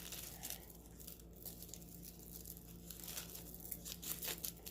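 Faint crinkling and rustling of packaging with a few scattered small clicks as necklaces are handled.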